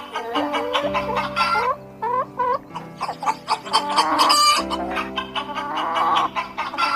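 Domestic hens clucking, many short calls in quick succession, over steady background music.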